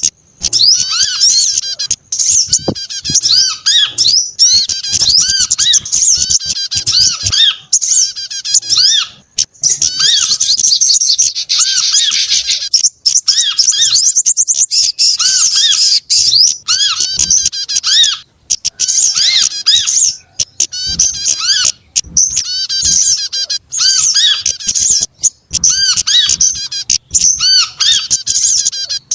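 A bird-luring recording of small songbirds calling: dense, rapid, high-pitched chirps and trills overlapping, with a repeating lower call phrase and brief pauses.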